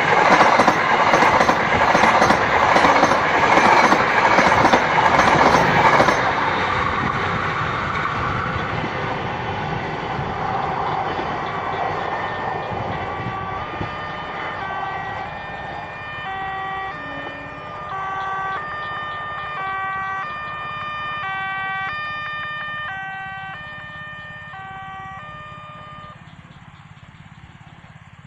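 Passenger train running past, a loud steady rumble of wheels and cars for about six seconds, then cut to a quieter, fading train rumble. Over it, from about twelve seconds in, a melody of clear tones steps up and down between notes for some fourteen seconds.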